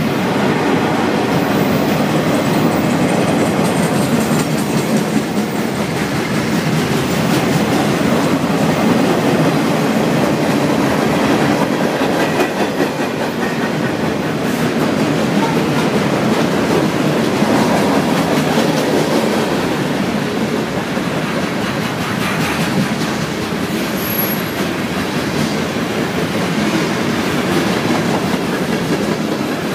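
Norfolk Southern freight train's boxcars and covered hopper cars rolling past, a steady loud rumble with the wheels clacking over the rail joints.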